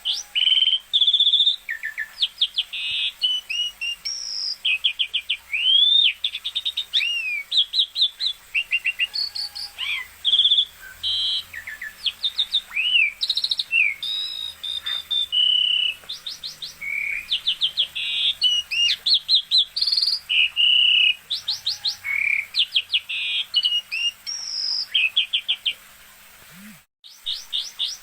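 Asian pied starling (jalak suren) singing continuously in a varied run of clear whistles, rising and falling slurred notes and rapid trills, with a short break near the end.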